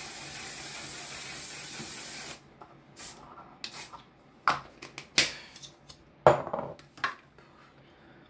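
Makeup setting spray hissing in one continuous spray, stopping about two and a half seconds in, followed by a series of sharp clicks and knocks as items are handled and set down.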